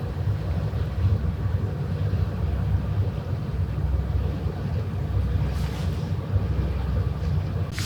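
Low, steady rumble of a passing vessel's engine carried over the water, with wind buffeting the microphone. A brief hiss comes near the end.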